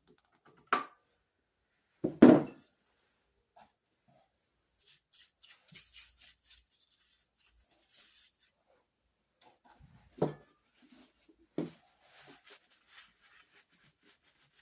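Tools and engine parts being handled on a workbench: four knocks of metal set down or struck, the loudest about two seconds in, with light rustling and scraping between them.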